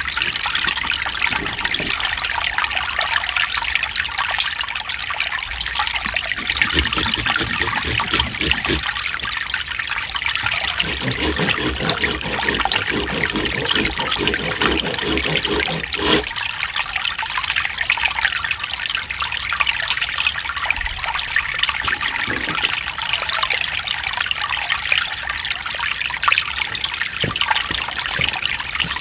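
Mountain stream running over rocks, a steady rush and trickle of water with occasional deeper gurgles.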